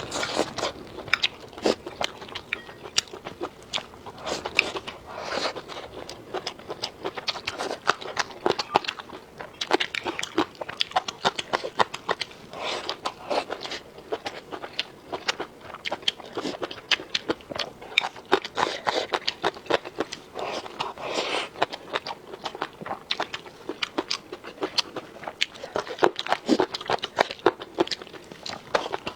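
A person chewing and biting food close to the microphone: a dense, irregular run of sharp mouth clicks and smacks throughout.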